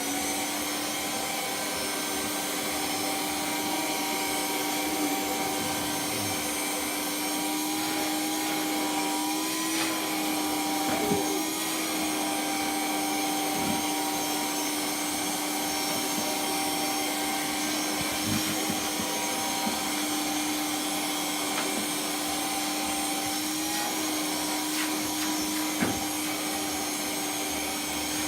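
An electric motor with rushing air, like a vacuum cleaner or blower, running steadily at an even pitch with a constant whine.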